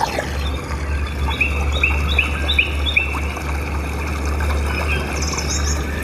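A bird chirping, a short rising call repeated about five times at about two a second from a second and a half in, then a quick burst of higher twittering near the end, over a steady low rumble.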